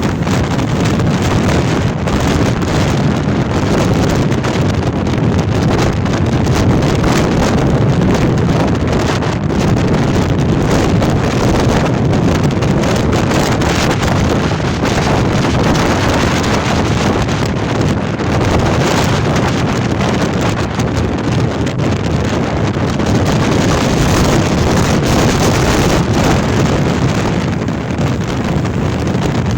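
Storm-force wind blasting over the microphone: a loud, dense rush of noise that buffets without a break, easing only slightly near the end.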